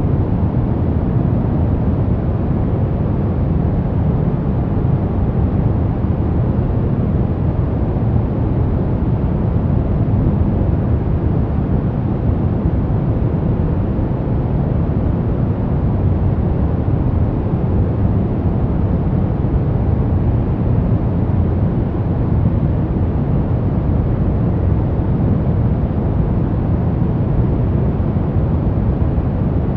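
Steady, unbroken white noise for sleep, heavier in the low end so it sounds like a deep, even rumbling hiss rather than a bright hiss.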